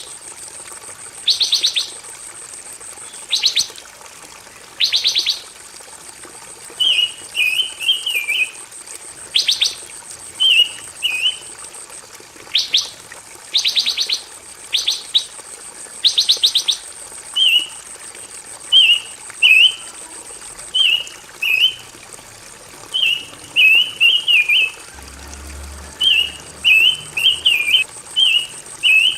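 Pancawarna songbird singing in short repeated phrases: quick rattling trills alternate with twittering, warbled chirps, with brief gaps between them. A faint steady high whine runs underneath.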